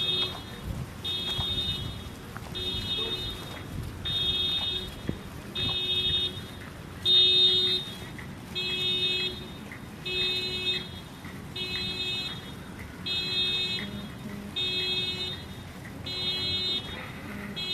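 An electronic alarm beeping steadily, one beep about every second and a half, each lasting under a second.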